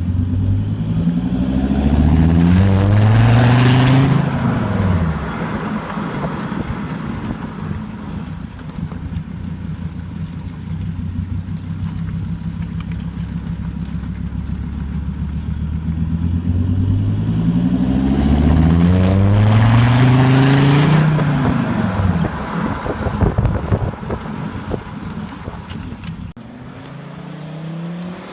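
Volvo V70 D5's 2.4-litre five-cylinder turbodiesel running through a stainless steel, nearly straight-through turbo-back exhaust with only a centre silencer. It runs steadily and is revved twice, each time rising in pitch for about two seconds and then falling back, once at the start and once near the middle. It gets quieter near the end.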